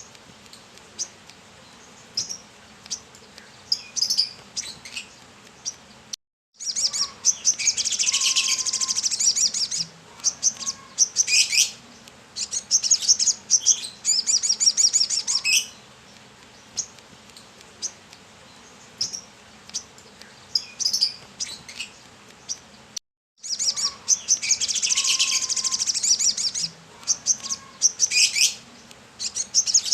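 Brown-throated sunbird (kolibri kelapa) singing in a lively way: scattered sharp, high chirps, with two longer runs of fast, high trilling about 7 and 24 seconds in.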